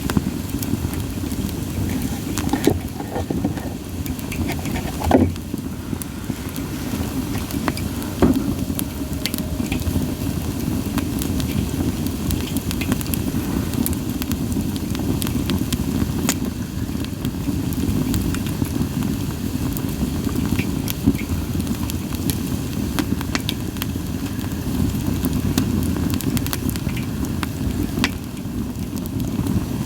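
Split sawtooth oak (kunugi) logs burning in a campfire, crackling with frequent small snaps and two louder pops about five and eight seconds in, over a steady low rushing.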